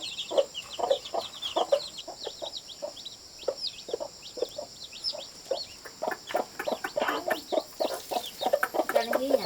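A flock of chickens clucking and calling, with many short calls overlapping throughout and high quick chirps above them.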